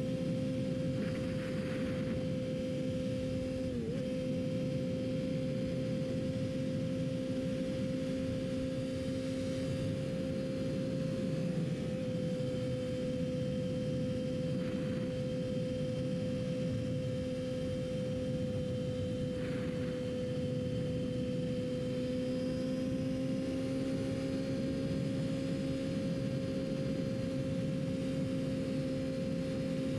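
Yamaha R6 sport bike's inline-four engine holding a steady, high-pitched note at constant speed. Its pitch dips briefly about four seconds in, sags a little around twenty seconds in and then creeps back up.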